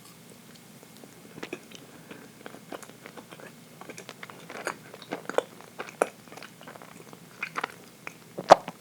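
Close-up mouth sounds of someone biting and chewing dense chocolate cake: soft wet smacks and clicks, scattered and irregular after a quiet first second, with one sharp, loud click near the end.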